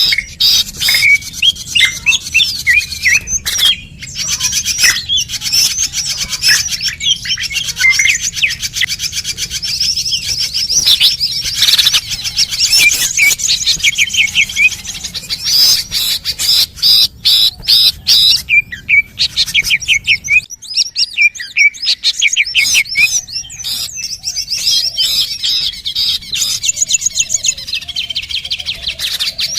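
Dense, continuous chirping and chattering of many small birds, rapid overlapping chirps and short trills, used as a bird-luring call recording (suara pikat). A faint low hum lies underneath and drops out for a couple of seconds a little past the middle.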